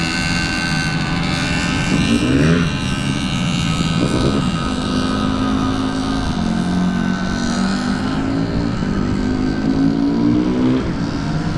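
Dirt bike engine under way, revving up and shifting about two seconds in, then pulling steadily higher in pitch as the bike accelerates.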